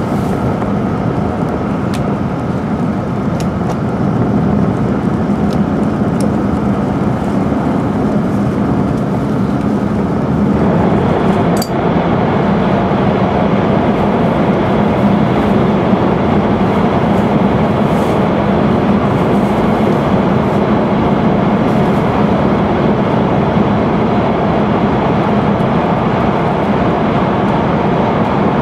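Steady running noise of an E5 series Tōhoku Shinkansen train at speed, heard inside the cabin by the window. About ten seconds in, the train enters a tunnel and the rumble grows louder and fuller, with a single brief click.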